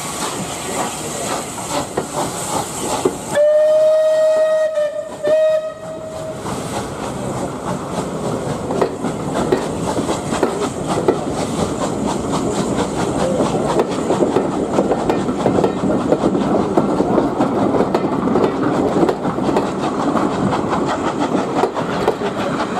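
Steam locomotive hissing, then sounding its whistle in two blasts, a long one and a short one. The train then runs on with a steady rumble and quick wheel clicks over the rail joints.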